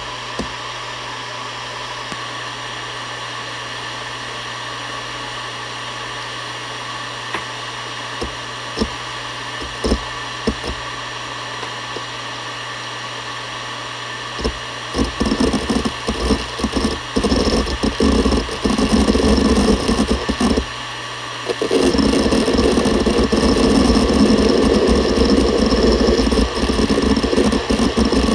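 Seagate Barracuda ES.2 ST31000340NS 7200 rpm hard drive spinning with a steady whine and a few scattered seek clicks. About halfway through, the heads start seeking rapidly in a dense run of clicks, which becomes continuous from about 22 seconds in.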